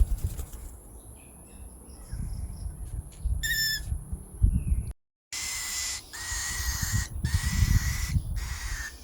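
Cockatiel calling: one short chirp about three and a half seconds in, then, after a brief break, a run of raspy, hissing calls of about a second each with a steady whistle-like tone in them, typical of a cockatiel chick begging while being hand-fed formula. Low rumbling handling noise underneath.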